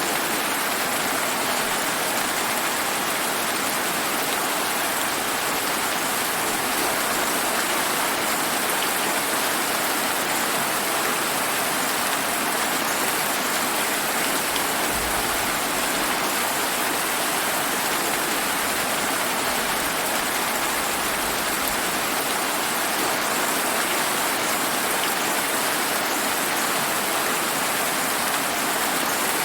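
Steady summer rain falling on surfaces, an even, unbroken hiss.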